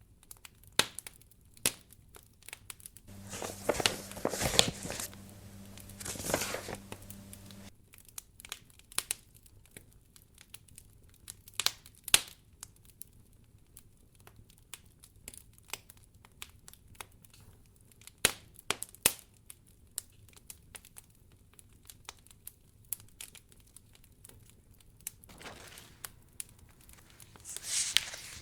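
Wood fire crackling in a fireplace: scattered sharp pops and snaps, with two longer stretches of noise lasting a few seconds, one a few seconds in and another near the end.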